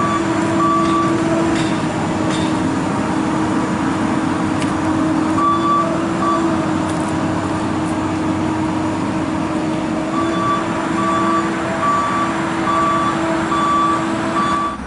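Komatsu excavator running at high revs with a steady drone, while its travel alarm beeps about twice a second in stretches near the start, in the middle and over the last few seconds, the sign that the tracks are moving.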